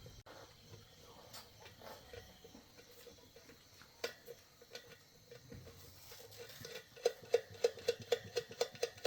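Scattered light clicks and knocks of metal tools being handled, then about seven seconds in a quick run of light metallic taps or clicks, about five a second, each with a brief ring.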